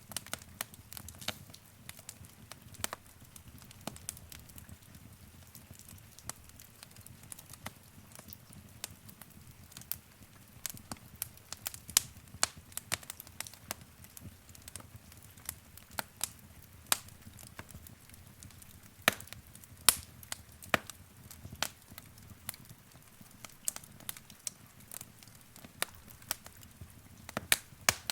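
Wood fire burning in a fireplace: irregular sharp crackles and pops of burning logs over a low rumble of the flames.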